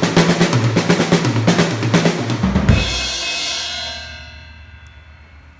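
Drum kit played with wooden drumsticks: a quick fill of strokes stepping down in pitch around the toms. About two and a half seconds in it ends on a crash cymbal and bass drum hit, and the cymbal rings out and fades.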